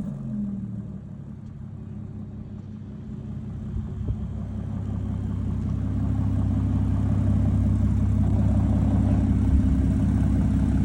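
Aston Martin DBS Volante's twin-turbo V12 running at a steady idle after a rev dies away, with a deep, even hum that grows louder from about four seconds in and then holds.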